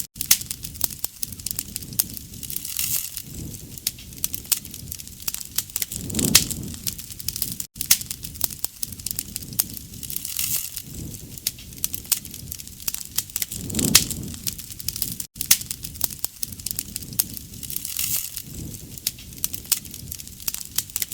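Wood campfire crackling with a dense run of sharp pops and snaps, and a low rumbling swell that rises and fades about every seven to eight seconds.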